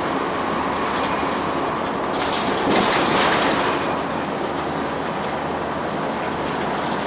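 Steady onboard cabin noise of a 2002 Blue Bird CS transit bus, with its Cummins ISL9 diesel engine running and road noise. A louder rushing swell comes about two to four seconds in.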